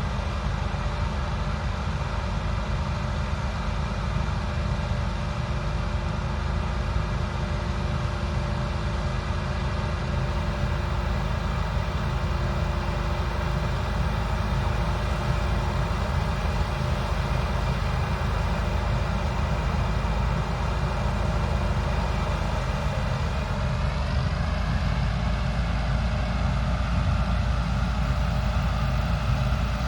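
Large diesel harvest machinery running steadily, a dense engine-and-drive hum with several steady tones that shift up in pitch about three-quarters of the way through.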